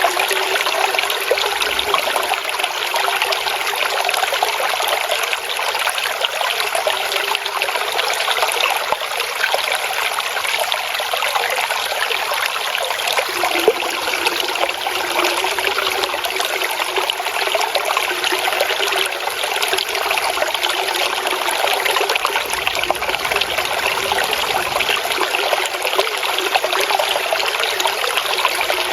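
Water trickling and babbling over stones, a steady splashing flow.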